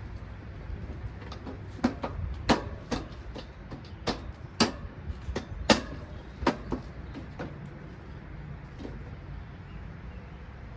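A run of sharp knocks and clunks, about a dozen spread over five seconds, the loudest a little after two, four and a half and five and a half seconds in, over a low steady rumble.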